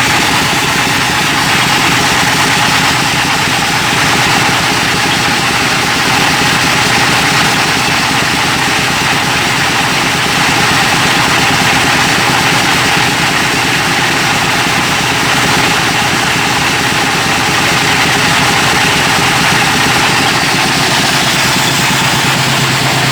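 Meatball grinding machine's engine running steadily and loudly, at an even idle-like rhythm with no change in speed.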